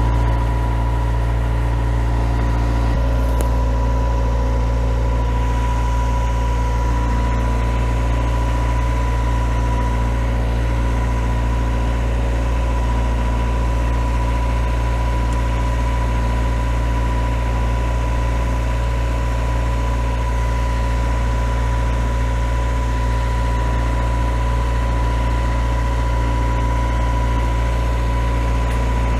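Perkins 4-108 four-cylinder marine diesel running steadily at a low, even speed, with a thin steady whine above the engine note.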